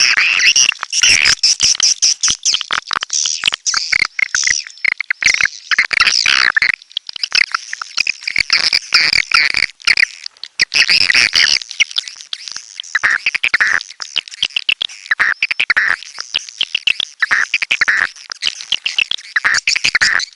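Swiftlets calling: a dense, unbroken chatter of rapid, high twittering chirps, many overlapping.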